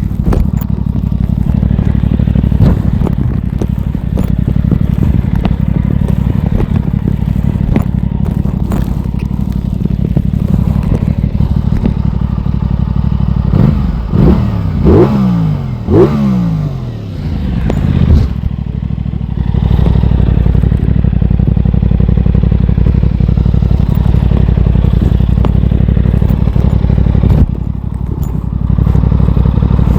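Aprilia Tuono 660's parallel-twin engine under way on a ride. Its revs swing up and down several times about halfway through, then it settles into a steady run, with a brief dip near the end.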